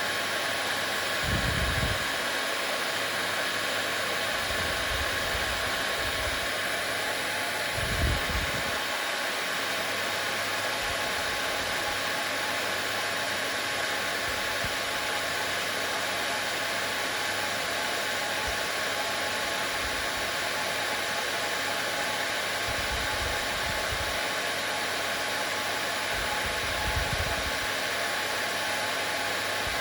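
Hair dryer running steadily: an even rush of air with a steady motor whine. A few soft low thumps come about a second in, about eight seconds in and near the end.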